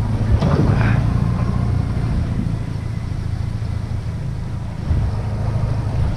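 Small boat's motor running steadily, with a few brief knocks in the first second.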